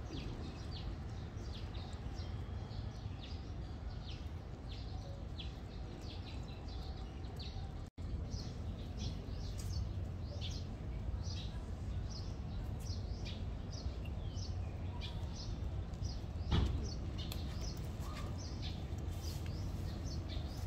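Small birds chirping in quick, repeated short calls over a steady low background noise, with a single thump about three quarters of the way through.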